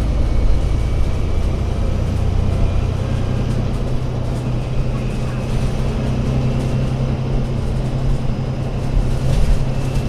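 Alexander Dennis Enviro500 MMC Euro 6 double-decker bus's diesel engine running under way. Its note rises about three to four seconds in and then holds steady.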